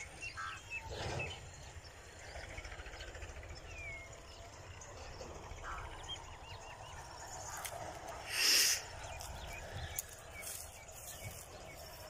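Small birds chirping and calling here and there over a faint steady outdoor hiss, with one louder, harsher call or burst of noise about two-thirds of the way through.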